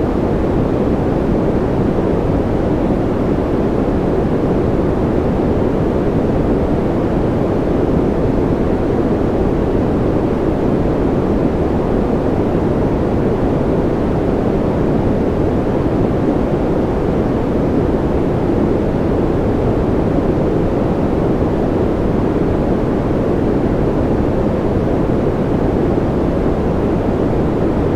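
Steady, unchanging generated sleep noise, deep in tone: most of its energy sits low, with little hiss on top.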